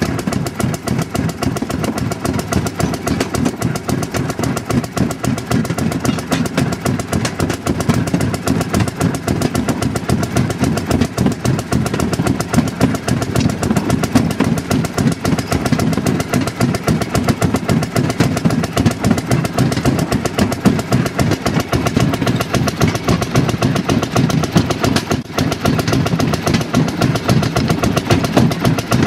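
Small gasoline engine of a railroad speeder (motor car) running steadily under way, with a fast, even beat of exhaust pulses.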